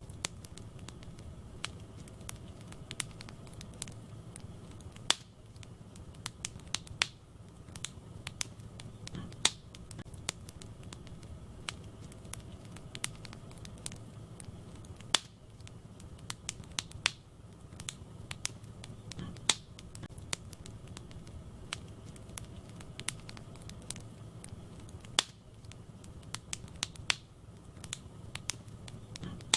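Wood fire burning in a fireplace: a steady low rumble of the flames with frequent sharp crackles and occasional loud pops from the burning logs.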